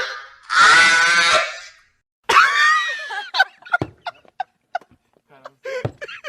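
Two laughter sound effects, one after the other: first a loud, shrill laugh lasting about a second, then, after a short pause, a laugh that starts with a gliding pitch and breaks into a run of short, separate bursts.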